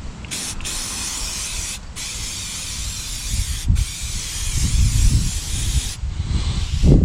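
Aerosol cleaner sprayed in long hissing bursts to clean the axle shaft, with three short breaks in the spray. A low thump comes at the very end.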